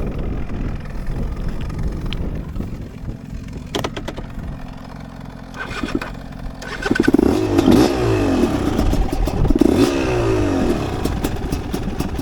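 Dirt bike engine running at low revs, then from about seven seconds in revving hard for a few seconds, its pitch rising and falling over and over. A few sharp clicks and rattles are scattered through it.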